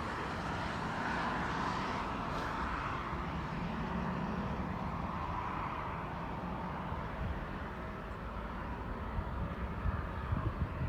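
Jet airliner noise slowly fading away as the aircraft moves off. Low gusts of wind on the microphone come in near the end.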